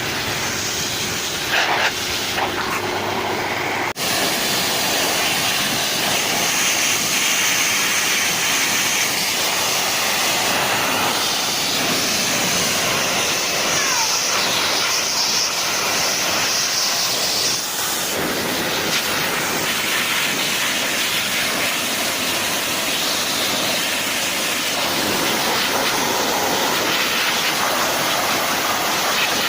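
Hair dryer blowing, a steady loud rushing hiss. About four seconds in the sound changes abruptly from a lower humming tone to a fuller, brighter rush.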